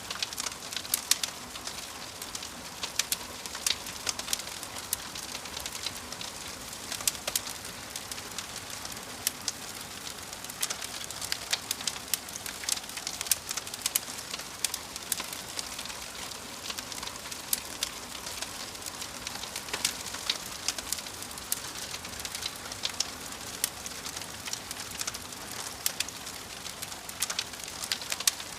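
Wood fire crackling: a steady soft hiss with frequent, irregular sharp pops and snaps.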